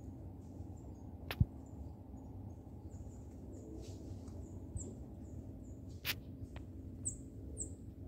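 Small birds giving many short, high chirps that dip in pitch, two of them louder near the end. A sharp knock comes about a second and a half in, and another click about six seconds in.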